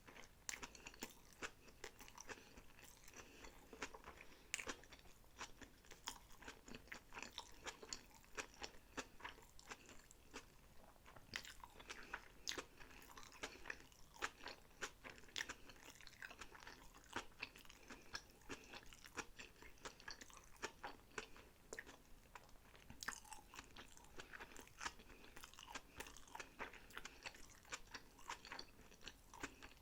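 Sushi rolls being chewed close to the microphone: a continuous run of small, sharp mouth clicks and crunches.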